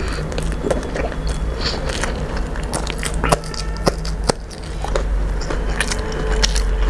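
Close-up chewing of a mouthful of rice and curry eaten by hand, with wet mouth clicks and smacks; a few sharp clicks stand out between about three and four and a half seconds in. A steady low hum runs underneath.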